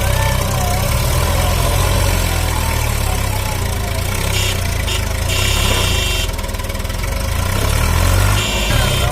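Swaraj 744 FE tractor's three-cylinder diesel engine running steadily at low speed. A brief high-pitched tone comes in twice, in the middle and near the end.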